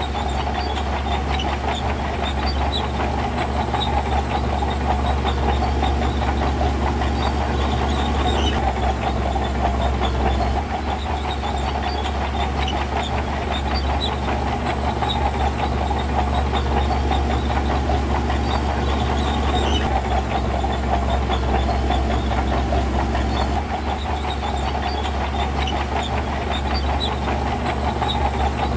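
Heavy diesel earthmoving machinery running steadily with a deep low rumble and scattered metallic clanks, the engine sound shifting a few times.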